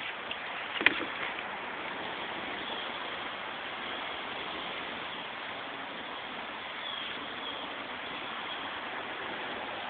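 Steady rushing background noise, with a single sharp click about a second in.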